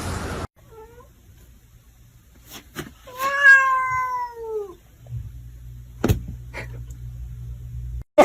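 A cat meowing: a short faint call near the start, then one long meow about three seconds in that falls in pitch as it ends, with a few light knocks around it.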